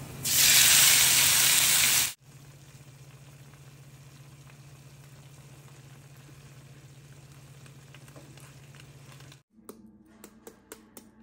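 Chopped garlic sizzling in hot oil in a nonstick frying pan, loud for about two seconds before it cuts off sharply. A faint steady hum follows, and near the end quick regular ticks come in, about three a second.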